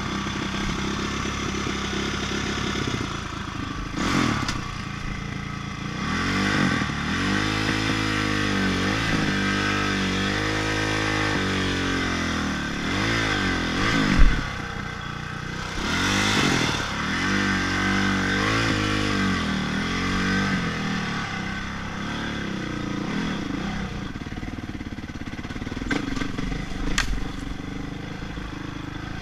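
Honda CRF450 motocross bike's single-cylinder four-stroke engine running, its revs rising and falling again and again. A single sharp, loud knock about halfway through.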